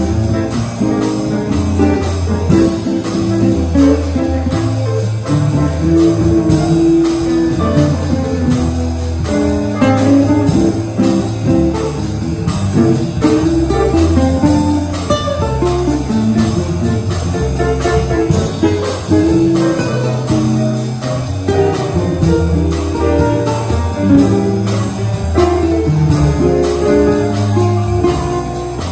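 Live jazz quartet of piano, guitar, bass and drums playing a bossa nova tune. The guitar is prominent over moving bass notes and a steady pattern of cymbal ticks.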